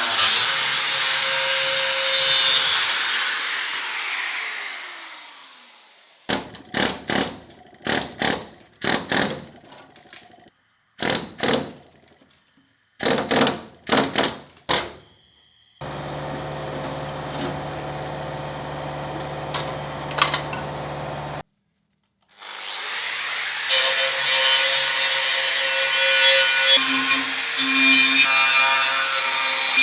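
Metalworking power tools in a sequence of cut-together clips: a power tool running and then winding down, a string of short sharp bursts, a steady hum that stops suddenly, then the power tool running again.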